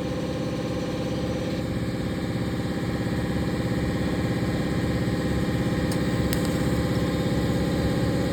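TIG welding machine running with a steady, fine-grained buzz, a little louder from about a second and a half in, with a few sharp clicks about six seconds in.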